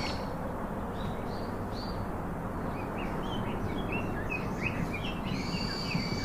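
Songbirds chirping repeatedly over a steady outdoor background hiss, with a longer held call about five seconds in.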